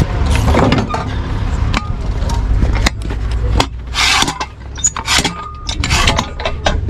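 A vehicle engine running with a low rumble, which stops about three and a half seconds in, along with a string of sharp clicks and knocks and a short rushing noise just after the rumble ends.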